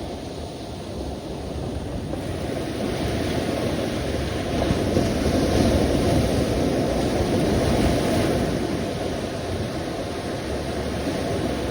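Sea waves washing onto the shore, a steady deep rush that swells and ebbs slowly, building about halfway through and easing again near the end.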